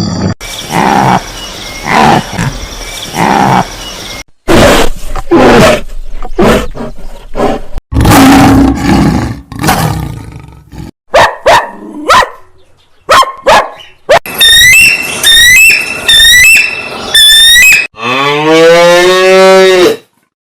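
A string of different animal calls cut one after another: rough roar-like calls, then short sharp calls, then a run of high repeated chirps, and a long low pitched call near the end.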